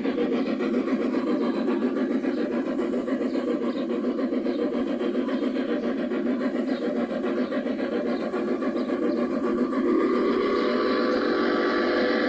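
G scale model train running, with a steady mechanical engine-like running sound that grows fuller about ten seconds in.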